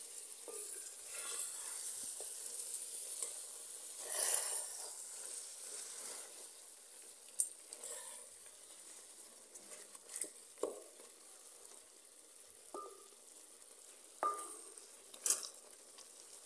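Beef and tomatoes frying in an aluminium pot with a steady sizzle, while a wooden spoon stirs them, scraping through the food in the first half. In the second half there are a few separate knocks of the spoon against the pot.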